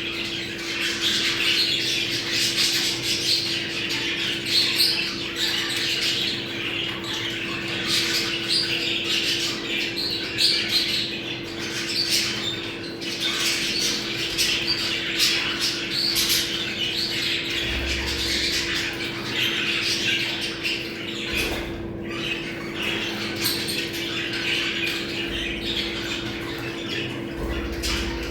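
Budgerigars chattering and warbling together without pause, the dense flock song of budgies in breeding condition, used to stimulate other budgies to breed.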